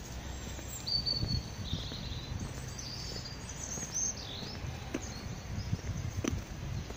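Outdoor street ambience: a steady low rumble with several short bird chirps about one to four and a half seconds in, and a few soft footstep taps on the pavement.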